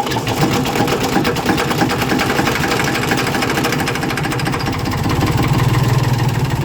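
Engine running just after a cold start, with a steady fast clatter that gets a little louder about five seconds in.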